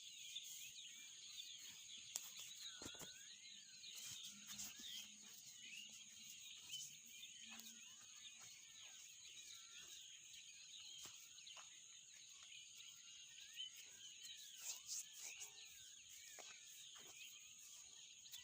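Faint, busy chirping of many small birds over a steady high insect drone.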